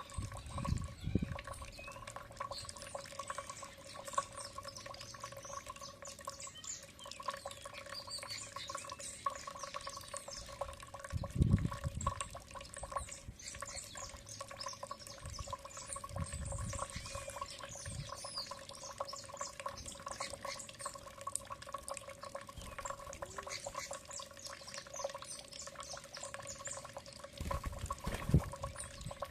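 Small birds chirping and twittering, many short high calls overlapping throughout, over a steady low hum, with a few dull low thumps.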